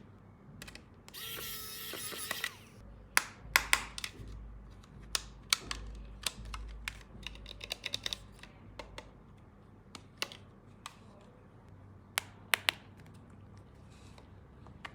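Plastic toy power tools being handled: a brief whir from a small battery toy motor about a second in, then irregular clicks and knocks of plastic parts.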